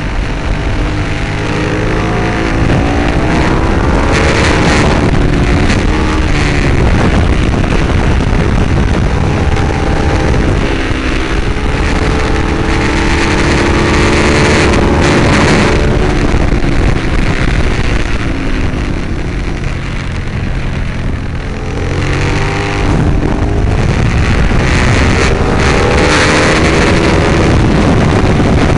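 Ducati 848's L-twin engine at racing speed, heard onboard, its note rising under hard acceleration and falling back into corners about three times, with steady wind rush over it.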